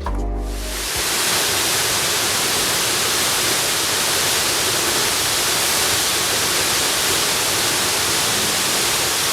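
Waterfall rushing: a steady, even wash of falling water that swells in over the first second as a short music intro stops, then holds at a constant level.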